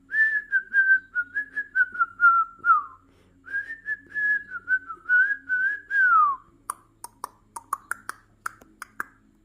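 Senegal parrot whistling a choppy, rhythmic tune in two phrases, each ending in a falling glide, then a run of short clicks and chirps.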